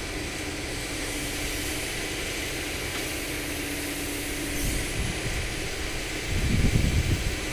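Hydraulic excavator's diesel engine running steadily, with a steady whine that stops about four and a half seconds in; a louder low rumble comes in near the end.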